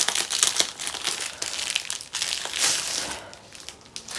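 Plastic packaging of a diamond painting kit being handled and pulled open, crinkling irregularly, with some tearing of tape; it eases off near the end.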